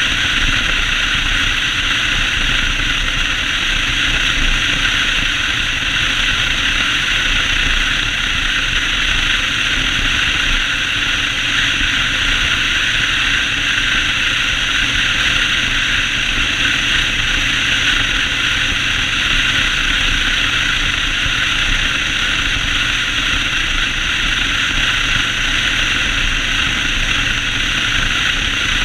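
Yamaha Road Star 1600 V-twin motorcycle running at a steady speed on the road, its low engine note under a steady rush of wind and road noise.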